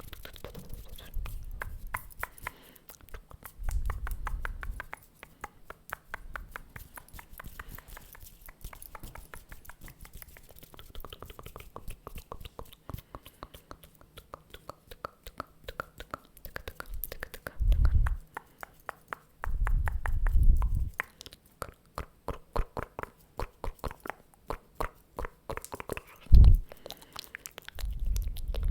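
Close-microphone ASMR mouth sounds: rapid wet clicks and smacks of lips and tongue, mixed with unintelligible whispering. Several low rumbling bursts come and go, the loudest a short one near the end.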